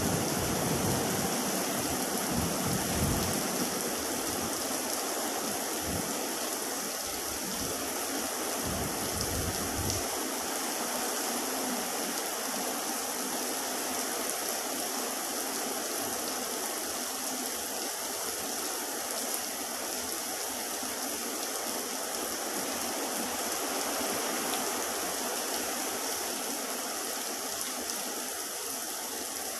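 Heavy rain pouring down in a steady hiss, with irregular low rumbling through the first ten seconds that then dies away.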